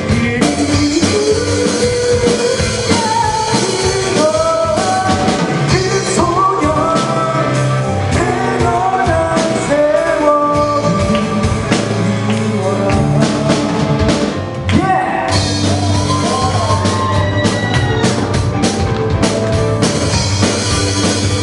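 Amateur band playing a rock song live: a singer's melody over drum kit and band, with a short break about two-thirds of the way through before the full band comes back in.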